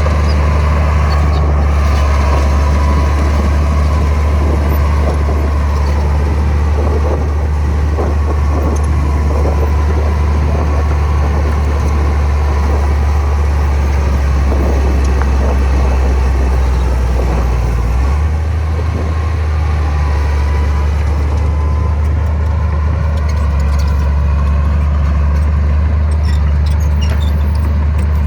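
Heavy earthmoving machine's diesel engine running steadily with a deep, continuous rumble; the low engine note shifts about two-thirds of the way through.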